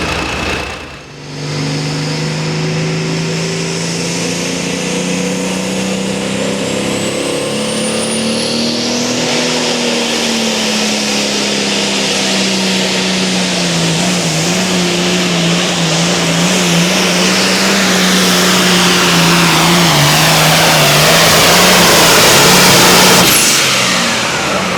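Pulling vehicle's engine held at full throttle through a sled-pull run. The engine note stays steady, then sags and wavers under the growing load, getting louder until it cuts off abruptly near the end.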